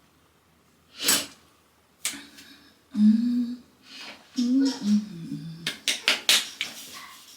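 Close handling noises in a small room: a brief hiss about a second in, a few short wordless vocal sounds in the middle, and a quick run of sharp clicks and taps near the end.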